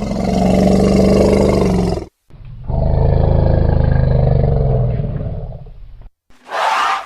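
A large animal roaring: two long, deep roars, the second one longer and falling in pitch, then a short call near the end.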